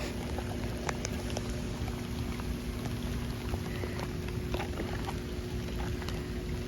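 Steady rain falling, with scattered drops ticking close by, over a faint steady hum.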